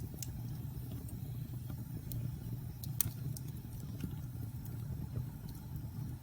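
Logs burning in a fireplace: a steady low rumble of flames with scattered sharp crackles and pops, the loudest pop about three seconds in.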